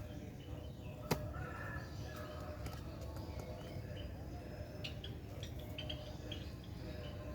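Faint, short high bird chirps scattered over a steady low background hum, with one sharp click about a second in.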